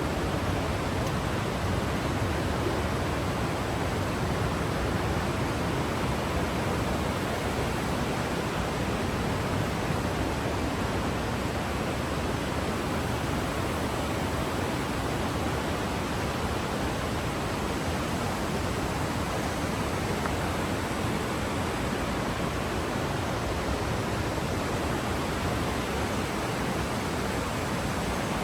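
Rushing water, a steady, even rush that does not change.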